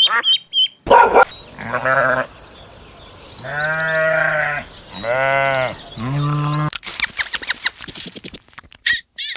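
A farm animal bleating: four drawn-out calls, the middle two the longest, followed from about two thirds of the way in by a fast run of clicks and high chirps.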